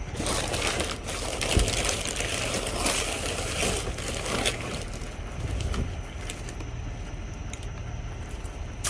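Bags and packaging rustling and crinkling as they are handled and rummaged through, busiest in the first four to five seconds, over a steady low rumble.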